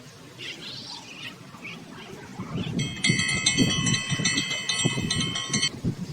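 Metal wind chimes ringing for about three seconds, struck repeatedly, over low gusty wind rumble on the microphone; a few bird chirps come before the chimes.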